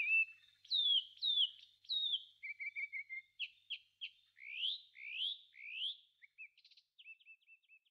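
A songbird singing a varied run of clear whistled phrases. There are falling slurred notes, then a quick trill, then three rising sweeps, and near the end short repeated chirps, with no other background sound.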